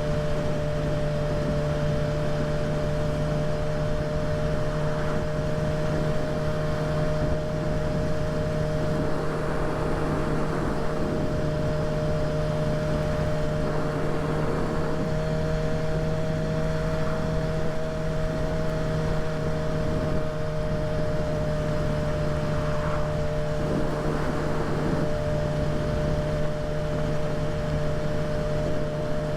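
Kawasaki ZX-6R inline-four engine running at a steady cruise, its drone holding one pitch throughout, with wind rush over it.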